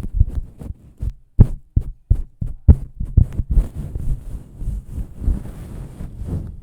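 Close-miked ASMR triggers: soft, irregular low thumps and taps, with a scratchy rustling joining about halfway through.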